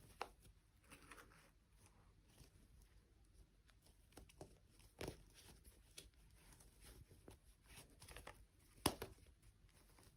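Faint handling noises: a few soft, scattered taps and rustles against near silence, with the sharpest tap near the end.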